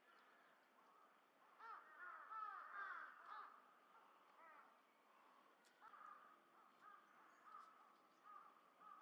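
Faint bird calls: a quick run of repeated arching notes about two seconds in, then scattered single calls later on.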